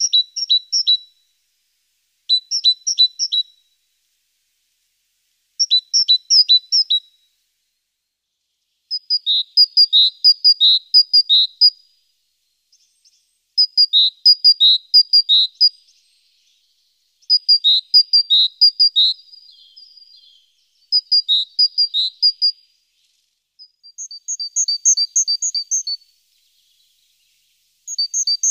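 A songbird singing: short phrases of quick, high, alternating two-pitch notes, each lasting one to three seconds and repeated about every three to four seconds, the later phrases longer than the first.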